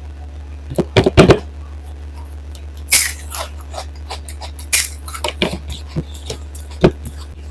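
Close-miked eating of dal and rice: a scatter of short wet smacks and clicks from chewing and handling food on the plate, loudest in a cluster about a second in, over a steady low hum.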